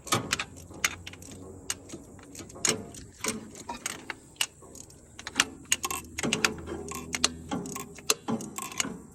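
Hand tools and metal parts clinking and clicking at irregular moments while fuel-line fittings on the fuel pump are worked loose.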